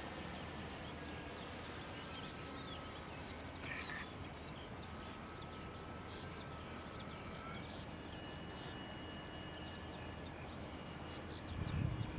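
Small birds chirping quickly and repeatedly over a quiet outdoor hiss, with faint steady tones underneath. Wind buffets the microphone near the end.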